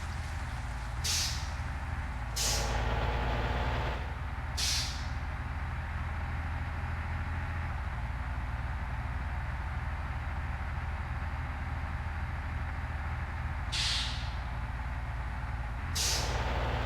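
Truck engine running with a steady low drone, with five short hisses of air, the first three within the first five seconds and two more near the end.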